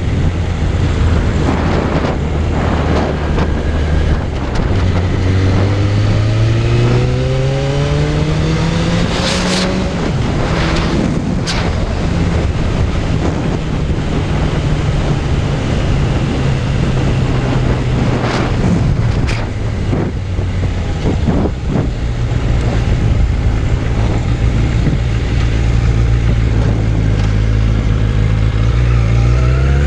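Suzuki Bandit 600's inline-four engine under way. It accelerates with a rising pitch a few seconds in, then holds a steady cruising note with wind rushing over the microphone. It starts rising again right at the end.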